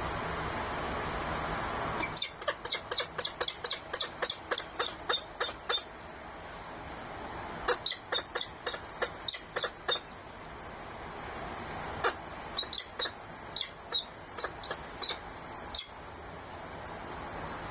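Falcon calling in three runs of sharp, repeated notes, about three or four a second, with short pauses between the runs, over steady wind noise.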